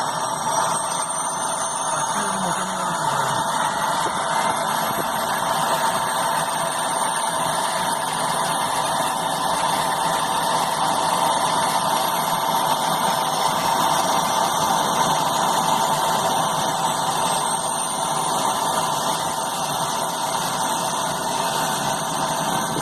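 The King Air B200's right-hand Pratt & Whitney Canada PT6A-42 turboprop running just after its start. A steady turbine sound carries high whistling tones that rise slowly over the first dozen seconds as the engine spools up and settles.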